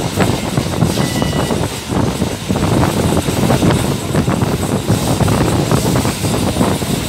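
Steady running noise of a passenger train under way, heard from an open carriage window: wheels clattering over the rails and the carriage rattling, mixed with rushing air.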